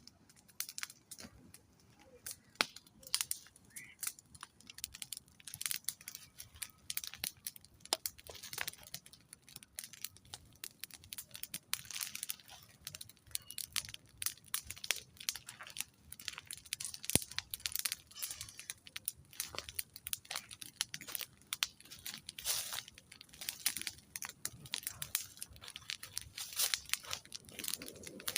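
Wood campfire crackling and popping, with irregular sharp snaps throughout.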